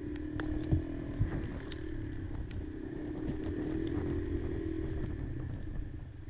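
Kymco Maxxer 300 quad's engine running at a steady low speed on a rough trail, with scattered knocks and rattles from the machine jolting over the ground. A couple of sharper knocks come about a second in, and the engine sound drops away near the end.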